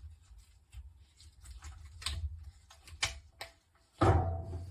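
Scattered light clicks and knocks from a plastic vacuum attachment and hose being handled and fitted, with one louder knock and low thud about four seconds in.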